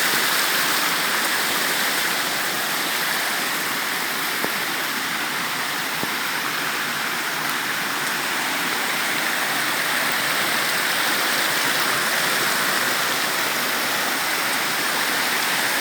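Steady rush of river water flowing over rocks, an even, unbroken roar.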